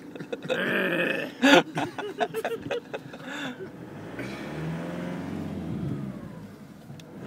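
A man's voice and a sharp loud bump in the first seconds, then the car's engine pulls away, its pitch rising and then easing off, heard from inside the cabin.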